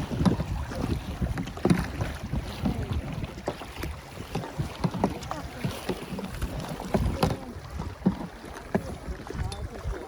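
Canoe paddling: irregular paddle strokes splashing and knocking in the water, with wind buffeting the microphone.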